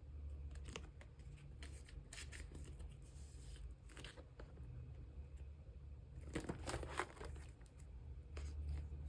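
Plastic sleeves crinkling and rustling as photocards are handled and slipped into them, with scattered light clicks over a steady low hum. The loudest cluster of crinkles comes about six to seven seconds in.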